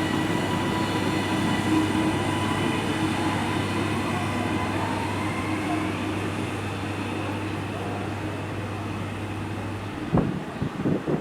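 A passenger train at the platform runs with a steady low hum and a faint whine. About ten seconds in the hum stops and a few sharp clicks follow.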